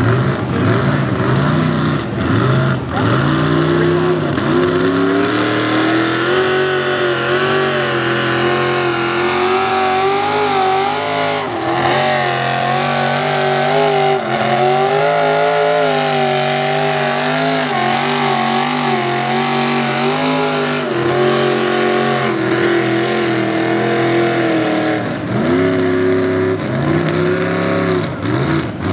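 Ford mud truck's 514 cubic-inch big-block V8 running hard at high revs, its pitch wavering up and down as the throttle is worked, with revs dropping and climbing again in the first few seconds and near the end.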